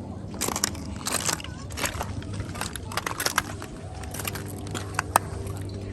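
Irregular clicks, clacks and scrapes of clam shells and beach gravel being dug and handled, over a steady low rumble.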